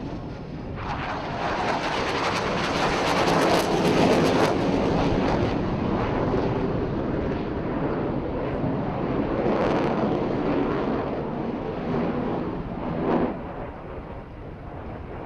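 Jet aircraft of the Black Eagles display team, T-50B trainers, flying past. Their engine noise builds about a second in and is loudest a few seconds later, swells again near the middle, then fades away near the end.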